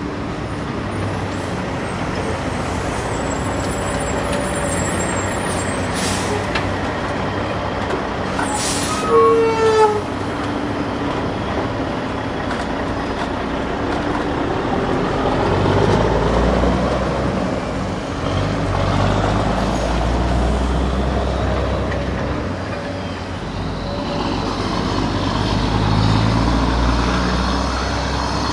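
Truck engine sound, running steadily with a low rumble throughout. About nine seconds in comes a brief, louder sound that falls in pitch.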